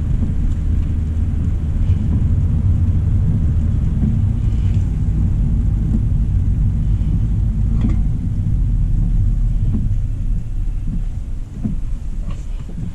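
Steady low road rumble of a 2025 Hyundai Elantra SEL driving on a wet road, with a few faint scattered ticks. The rumble eases off a little about ten seconds in.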